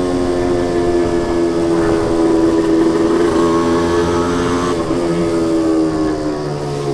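Suzuki Wolf 125 two-stroke motorcycle exhaust while riding, its engine note sliding slowly and steadily down in pitch as the revs fall.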